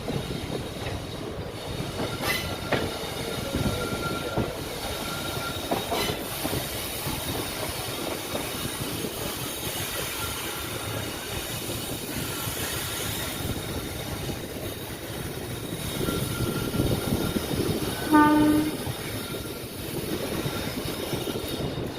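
Express passenger train running on the rails, steady rumble and wheel clatter heard from inside the coach, with one short horn blast about eighteen seconds in.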